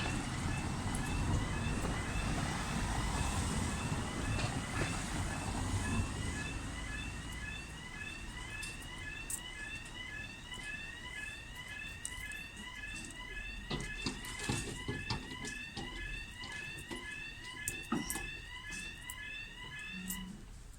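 Level crossing warning alarm sounding, a rapid repeating electronic chirp about three times a second, over road traffic rumble that dies away after several seconds as vehicles stop at the crossing.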